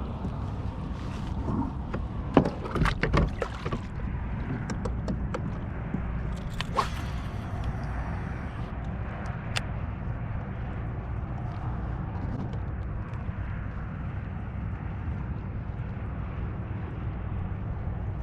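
Pedal kayak under way, with a steady rush of water along the hull. A few knocks and clicks sound in the first few seconds and once more about seven seconds in.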